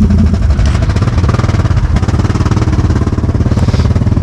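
An ATV engine running close by with a fast, even firing beat. Its note changes about half a second in.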